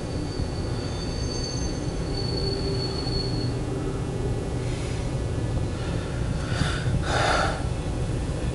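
Double-stack intermodal freight train rolling past: a steady rumble of steel wheels on the rails, with a thin high wheel squeal in the first few seconds and two brief louder bursts of squeal and clatter a little after the middle.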